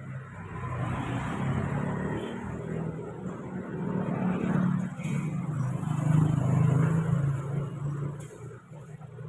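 Large diesel truck's engine running under load while manoeuvring, its sound swelling twice and then easing off.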